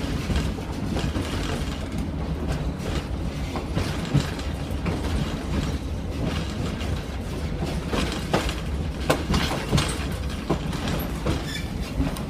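Passenger train running along the track, heard from aboard a car: a steady low rumble with irregular clicks and knocks from the wheels and couplings.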